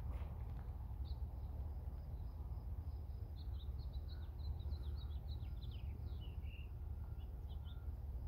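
A songbird singing a run of short high chirps, many of them falling in pitch, over a steady low rumble.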